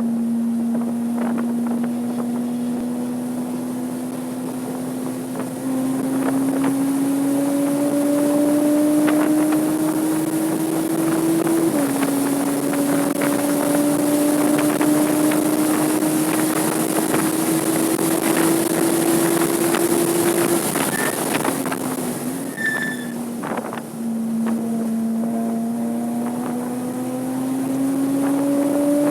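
Porsche 987.2 Cayman S's 3.4-litre flat-six engine pulling hard on track, its note climbing slowly with revs, dropping once at an upshift about twelve seconds in, then falling away as the driver lifts around twenty seconds before climbing again under power near the end. Wind rush sounds throughout.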